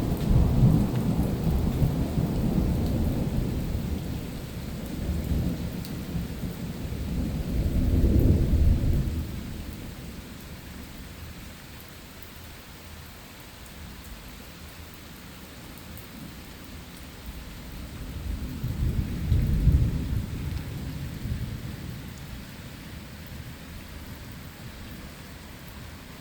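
Thunder rumbling over steady rain: a long rumble through the first third that swells again about eight seconds in, then rain alone, then another rumble a little past the middle.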